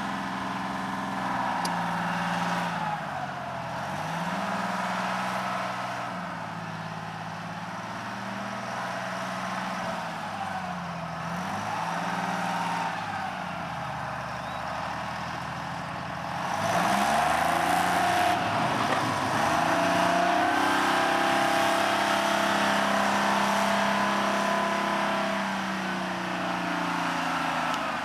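Engine of a boom-type digging machine running, its pitch sagging under load and climbing back up about three times, louder over the last third as it works to bring up a load of dirt.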